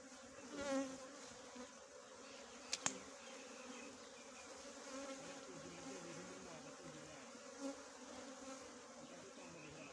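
Small honeybees buzzing as a faint, steady drone around their nest while the honey is taken. A brief warbling sound comes under a second in, and a sharp click about three seconds in.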